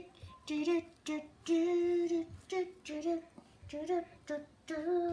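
A voice humming or singing a wordless tune in a series of short notes, with one longer held note about a second and a half in.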